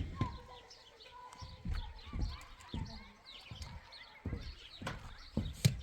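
Irregular knocks and thuds, eight or so spread unevenly, over many faint high chirps.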